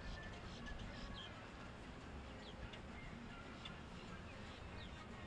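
Scattered short, high bird chirps over a faint, steady low rumble.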